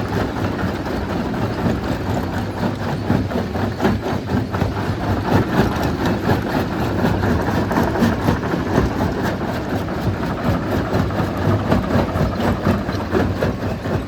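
Rock crusher running under load, its motor humming under a dense, irregular clatter and knocking of stones being crushed.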